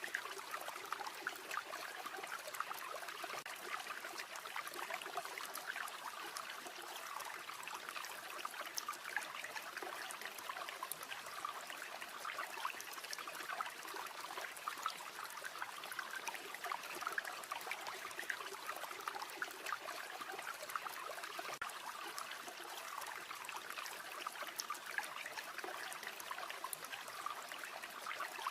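River water flowing: a steady rush full of small splashes and trickling.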